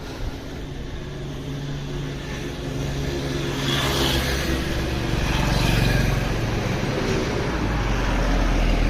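Motorcycle engine running steadily, slowly getting louder.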